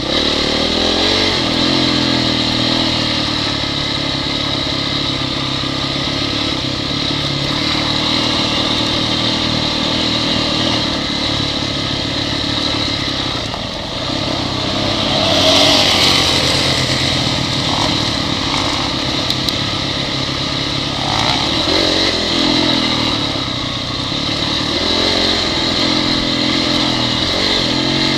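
Honda CRF dirt bike's four-stroke single-cylinder engine running as it is ridden downhill, revs rising and falling in short throttle blips. A burst of hiss about halfway through is the loudest moment.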